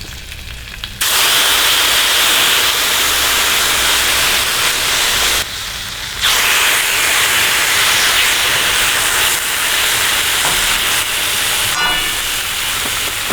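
Marinated pork ribs sizzling loudly on a hot griddle: a steady hiss that starts abruptly about a second in, drops off briefly around the middle, then resumes.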